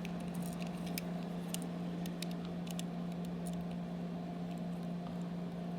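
Faint scattered light clicks from a small plastic toy car being handled, over a steady low hum.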